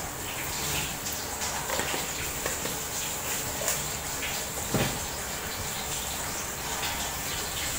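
Tomato and spice masala frying in oil in an aluminium pot, a steady sizzle with scattered crackles and pops, and one louder thump a little under five seconds in.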